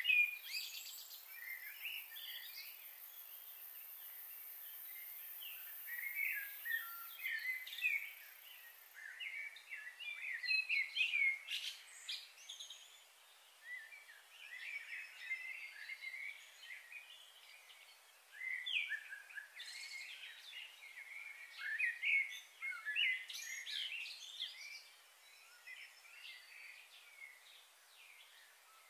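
Small birds chirping and twittering, with many short high calls coming in irregular clusters.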